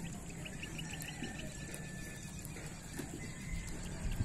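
A bird's quick run of about eight chirps about half a second in, over a steady low hum.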